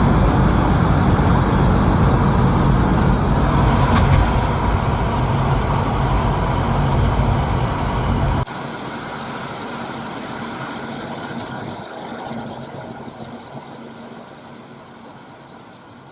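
Grinding brake noise from a 10th-generation Honda Civic while driving, loud and continuous for about eight seconds, then cutting down suddenly to a quieter car noise that fades away. The grinding comes from unevenly worn brake pads.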